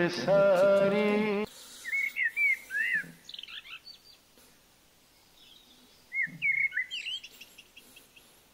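Birds calling with short high chirps, in two spells a few seconds apart with a quiet gap between. A loud held note runs for about the first second and a half and stops abruptly.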